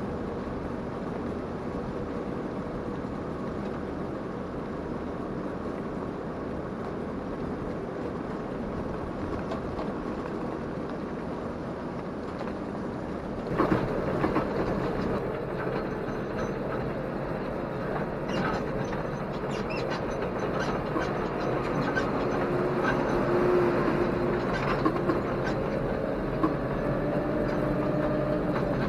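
Tractor engine running on the move, with rattling and clatter; about halfway through it gets louder and the rattling gets sharper.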